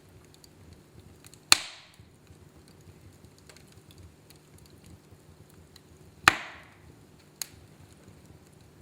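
Wood fire burning in a fireplace: two loud sharp pops from the burning logs a few seconds apart, each dying away quickly, and a smaller crack near the end, over a faint low crackle.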